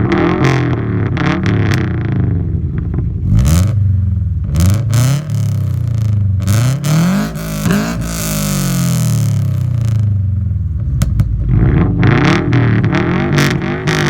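Flat-four boxer engine with unequal-length headers and a loud aftermarket exhaust, revved up and down again and again. The revs are held higher for a couple of seconds just past the middle.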